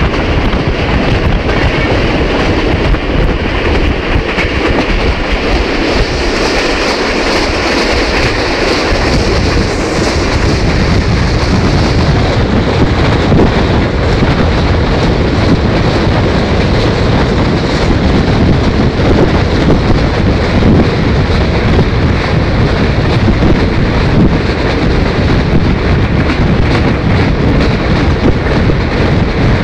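Pakistan Railways passenger train running, heard from the open window of a carriage: steady noise of the wheels on the rails.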